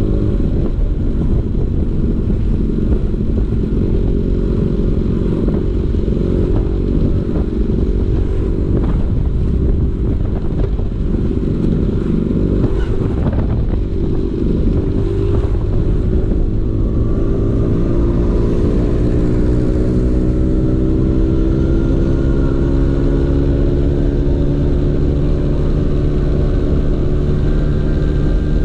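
Vespa PX 150's two-stroke single-cylinder engine running through a DRC Victory racing exhaust. The note is uneven through the middle, then climbs slowly and steadily from about halfway through as the scooter accelerates.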